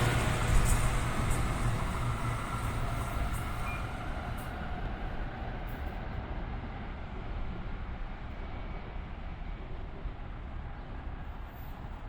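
NJ Transit commuter train moving away, its rumble fading steadily, with a few light clicks in the first half.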